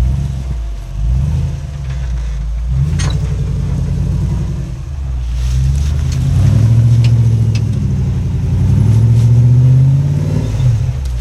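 Off-road rock-crawling rig's engine revving under load as it climbs a rock ledge. The revs rise about halfway through and hold high for a few seconds, then drop near the end. Now and then there is a sharp click or knock.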